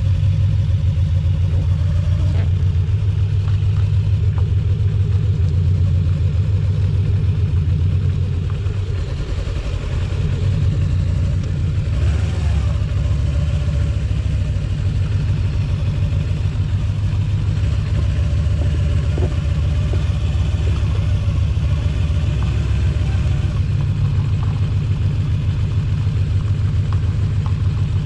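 A vehicle engine runs steadily with a low, even rumble while under way, and the level holds without pauses.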